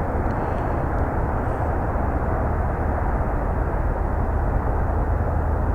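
Steady low rush of wind on the microphone, with no distinct events.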